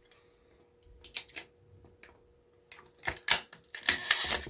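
Clicks and clatter of small parts being pulled off scrap electric motors by hand: a few faint clicks at first, then a quick run of sharp rattling knocks from about three seconds in.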